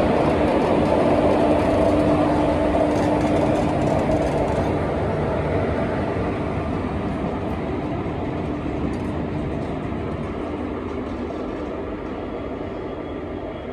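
WAP-4 electric locomotive and ICF passenger coaches rolling past along the platform, with a steady rumble of wheels on the rails. A steady hum is heard for the first few seconds, and the sound slowly fades as the locomotive draws away while the coaches keep passing.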